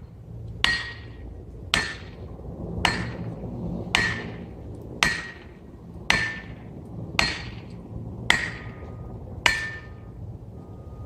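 Repeated sharp metallic strikes, about one a second, nine in all, each ringing briefly, over a low steady rumble.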